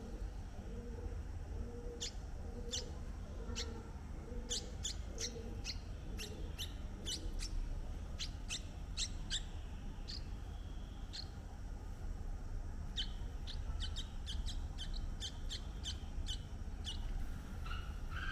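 Birds chirping: many short, sharp chirps, scattered at first, then in quick runs near the middle and again about three quarters of the way through, over a steady low rumble. A soft, low call repeats at an even pace through the first few seconds.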